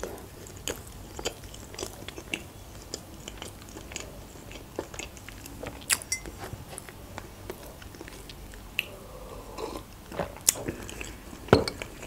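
Close-miked mouth sounds of someone chewing a soft pancake, with many small wet clicks and smacks. Toward the end come a few louder sips and swallows of tea from a mug.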